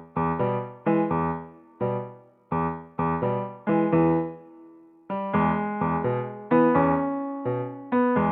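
Background music: a piano or electric piano playing a light tune of struck chords, each note decaying after it is played.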